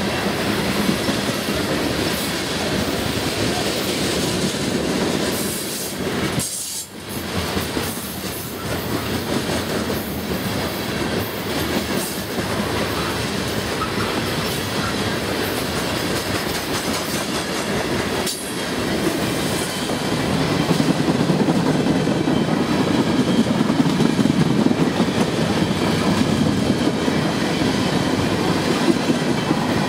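Covered hopper cars of a freight train rolling past close by, a steady rumble of steel wheels on the rails, getting louder about two-thirds of the way through.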